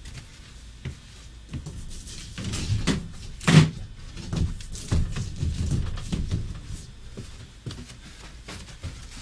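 Knocks and thumps of things being handled in a small room, with one sharp bang about three and a half seconds in.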